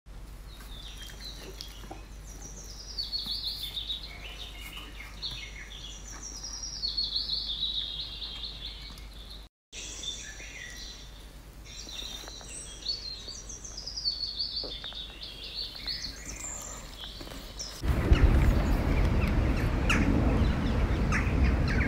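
Songbirds singing in high, quick chirping trills and phrases over a low background hum. Near the end, a much louder steady rushing noise sets in and covers the birdsong.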